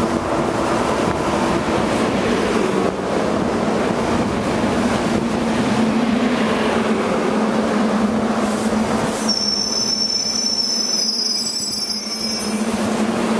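SEPTA push-pull train hauled by an AEM-7 electric locomotive rolling slowly along the platform, with a steady low hum under the running noise. About nine seconds in, the brakes squeal in high tones for about three seconds as the train comes to a stop.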